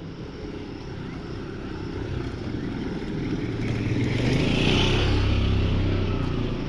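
Motorcycle engine running. It grows louder from about two seconds in, is loudest around five seconds, then eases off slightly.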